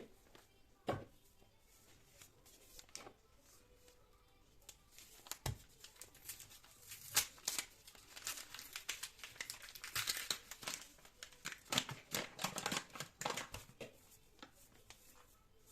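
A few soft knocks, then from about six seconds in a long stretch of crinkling and rustling, as of crinkly material being handled, dying away shortly before the end.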